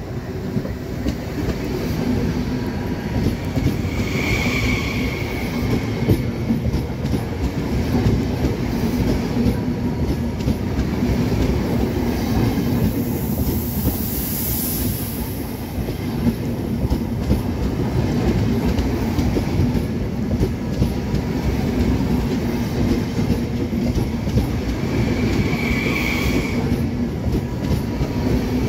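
Trenitalia high-speed (AV) passenger train departing the station, its wheels running over the track with a continuous rumble and clatter under a steady low hum. There are short wheel squeals about four seconds in and again near the end, and a brief high hiss about halfway through.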